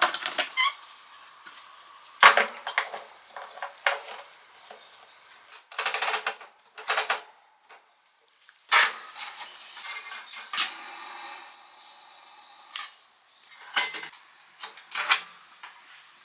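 Objects being handled: a series of sharp clatters and knocks, with a few short rustling swishes in between.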